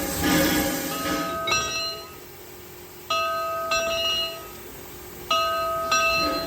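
A bell-like chime ringing in pairs of clear, even notes, one pair about every two seconds, at a railway. In the first second and a half a train's hiss runs under it.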